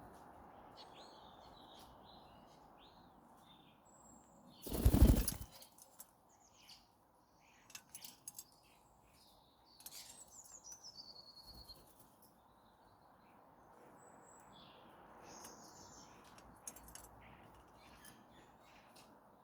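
Birds chirping on and off at a garden bird feeder, with one call near the middle that falls in pitch. About five seconds in comes a short, loud burst of wing-flapping close to the feeder.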